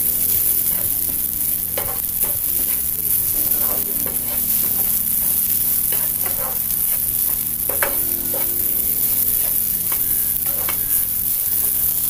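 Grated coconut frying in ghee in a non-stick pan over a high flame, sizzling steadily, with a spatula repeatedly scraping and stirring it across the pan.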